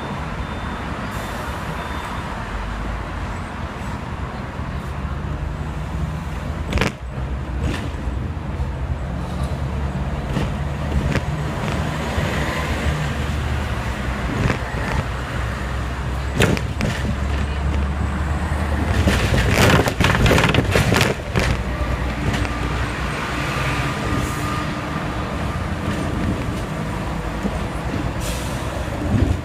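Hong Kong double-decker tram running along its street track through traffic: a steady low rumble and motor hum, with a few sharp clicks and a louder noisy stretch about twenty seconds in.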